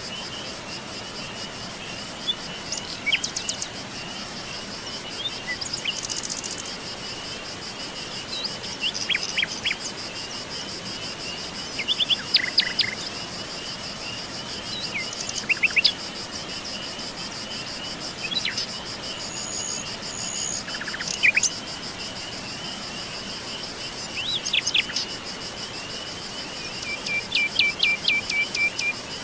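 Insects trilling steadily in a fast, even pulse, with wild birds giving short chirps and calls every few seconds over them.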